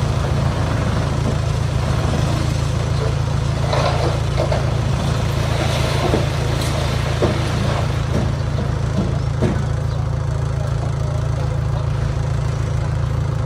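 Diesel engine of heavy earthmoving equipment running steadily, with scattered knocks and clanks between about four and ten seconds in.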